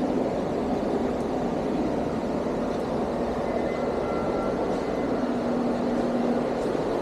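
Steady rushing background noise of an open cruise-ship pool deck, with a faint held hum and a thin high tone briefly partway through.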